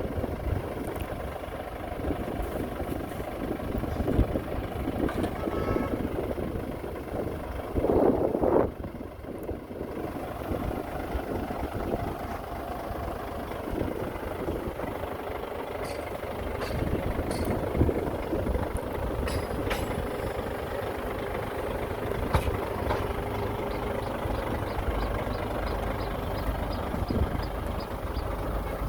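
Heavy diesel earthmoving machinery, dump trucks and a bulldozer, running with a steady low engine rumble. A louder burst comes about eight seconds in, and a rapid series of faint high ticks starts near the end.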